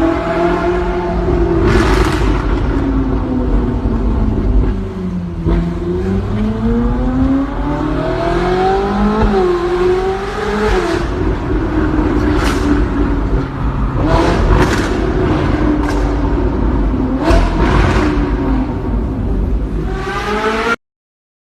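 Ferrari engine running loud, its pitch dropping, climbing and wavering as the revs change, with a few short sharp noises along the way; the sound cuts off abruptly near the end.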